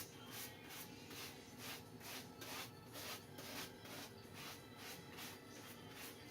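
Quick, faint swishing strokes, about three a second, as wet glue is worked over tissue paper laid on a surfboard deck.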